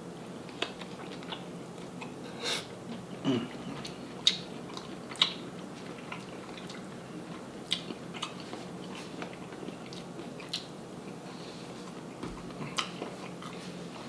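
A person chewing seafood-boil food close to the microphone, with irregular sharp mouth clicks scattered through it.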